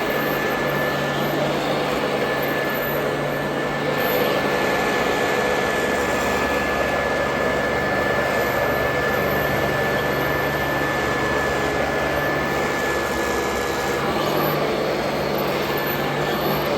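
Royal Model 2008 upright vacuum cleaner running steadily, a motor rush with a steady high whine, shifting slightly in tone a few times as it is worked.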